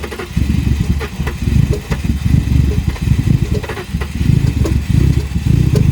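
Turbocharged BMW E30 engine idling roughly, its level surging and dipping unevenly. It is idling badly while the car is still being sorted.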